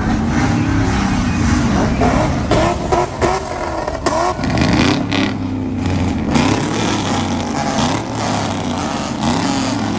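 Loud vehicle engines running, with several quick revs that rise and fall in pitch between about two and five seconds in.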